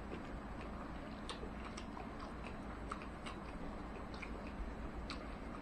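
Faint eating sounds of a man eating rice and fried egg in soy sauce by hand: chewing with scattered small wet clicks.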